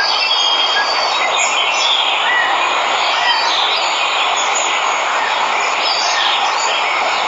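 Steady rushing of a waterfall, with birds chirping over it in short, scattered calls.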